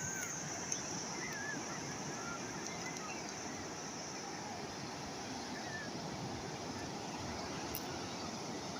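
Steady wash of calm sea waves, with a few faint, short chirps over it.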